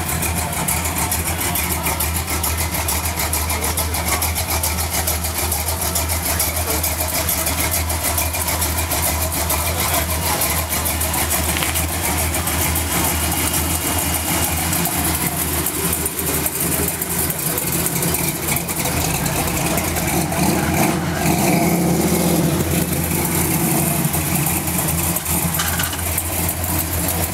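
A car engine idling steadily, swelling louder for a few seconds about two-thirds of the way through.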